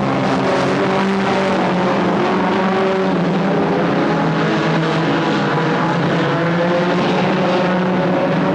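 Several stock car engines running together at speed, a steady loud drone of overlapping engine notes at slightly different pitches.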